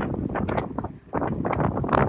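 Wind gusting over the microphone: uneven rumbling buffeting, with a brief drop about a second in.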